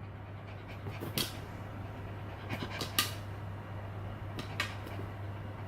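Shiba Inu panting softly over a steady low hum, with a few sharp clicks, the loudest about three seconds in.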